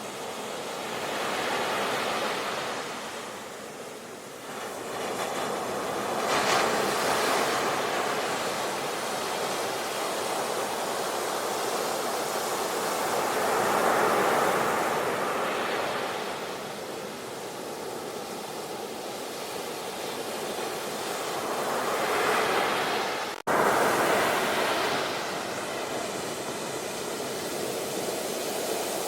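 Ocean surf breaking and washing back, a steady hiss that swells and falls about four times. About two-thirds of the way through the sound drops out for an instant, then comes straight back loud.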